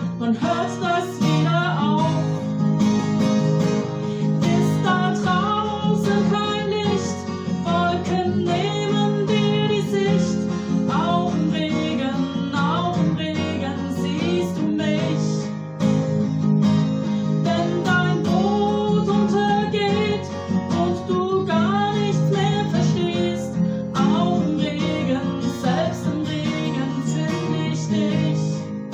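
Acoustic guitar strummed as song accompaniment, with a pitched melody line carried over it throughout.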